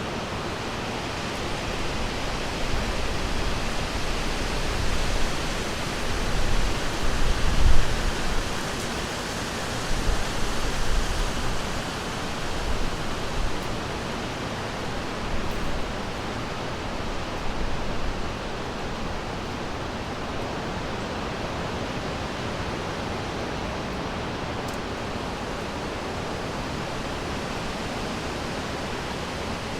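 River water rushing steadily, an even hiss of flowing water, with irregular low rumbling swells in the first half.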